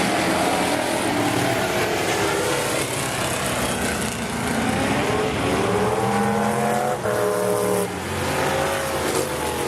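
Several demo cars racing around the oval, their engines running hard at once. The engine notes rise as the cars rev up, most clearly about five to seven seconds in.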